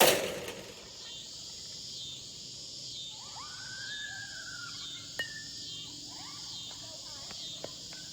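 Metal Marucci Cat 7 alloy bat striking a baseball once, a sharp ringing crack right at the start that dies away within about a second. Insects keep up a steady, pulsing high chorus underneath.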